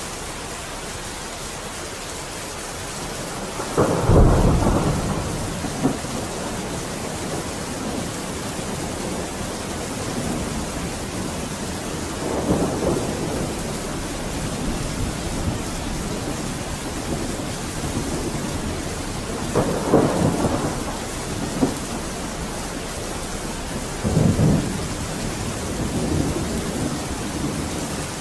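Steady heavy rain hissing, with thunder rumbling in four swells, the loudest a little after the start and the others spread through the rest.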